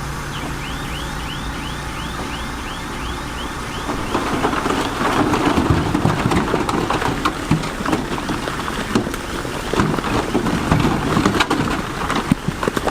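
Heavy diesel machinery running with a quick repeating chirp, then from about four seconds in a loud rumbling clatter of big stones tumbling and grinding over each other.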